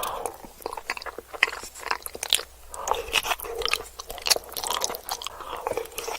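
Close-miked eating: crunchy bites and chewing, with irregular sharp crackles and wet mouth sounds.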